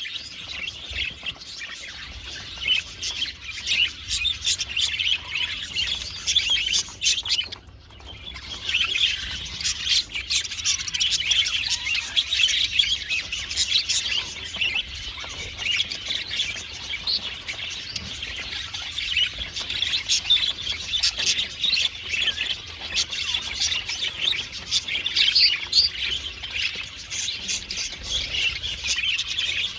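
A flock of budgerigars chattering and chirping continuously, many overlapping calls, with a brief lull about eight seconds in.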